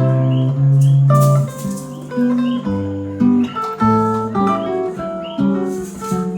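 Acoustic guitar playing the introduction to a song: plucked bass notes under a melody of single notes and chords.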